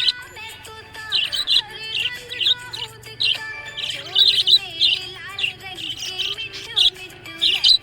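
Budgerigar chirping in many short, high chirps, with music playing underneath.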